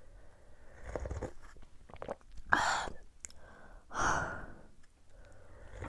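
A person slurping hot yukgaejang cup-ramen broth, with two loud slurps about two and a half and four seconds in and a quieter one about a second in.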